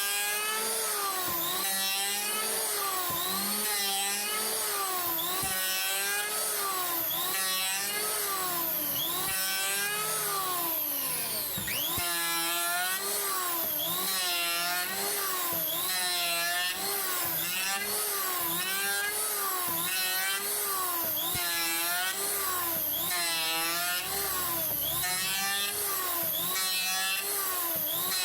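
Makita M1902 electric hand planer running, its motor pitch dipping and recovering about once a second as it is worked over wood.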